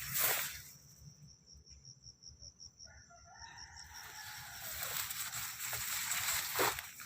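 A rooster crows once, starting about three seconds in and falling away at the end, over a high, evenly pulsing insect trill. A rustling noise builds after the crow.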